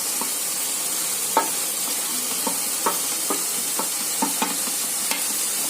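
Onion-and-spice masala frying in hot oil in a kadai, a steady sizzle, while a spoon stirs it and knocks against the pan about eight times. Freshly added coriander and cumin powder are being fried into the masala.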